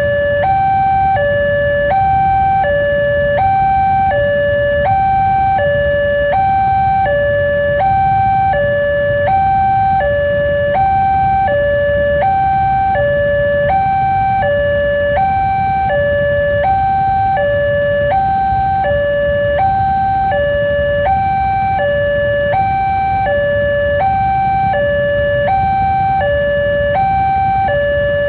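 Railway level-crossing warning alarm sounding an electronic two-tone signal, alternating evenly between a higher and a lower note about once a second, warning that a train is approaching. A steady low rumble runs beneath it.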